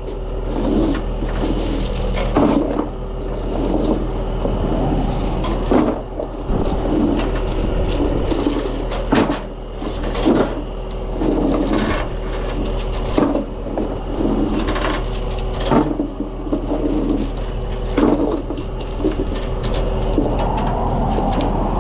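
Steel tie-down chains clinking and scraping against metal, with a sharp clank every second or two, over a truck engine idling steadily.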